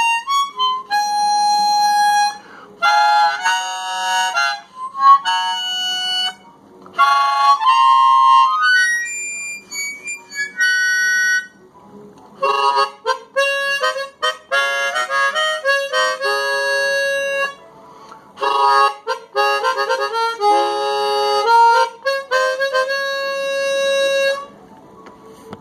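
Hohner Super Chromonica chromatic harmonica, an old pre-war instrument, playing phrases of single notes and chords with brief pauses, ending shortly before the end. Some of its reeds are worn and some notes don't sound cleanly.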